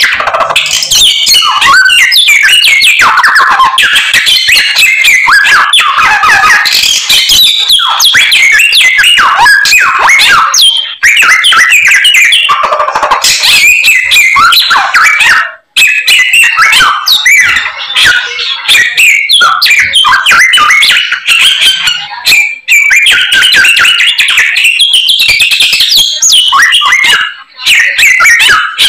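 Samyong songbird singing nonstop: a loud, fast, varied whistling and warbling full of mimicked calls ('isian'), broken only by a few short pauses.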